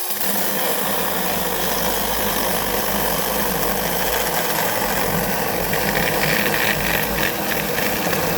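Mini chainsaw cutting through a thick log: a steady, loud rasp of the chain in the wood, turning harsher and rattling about six seconds in.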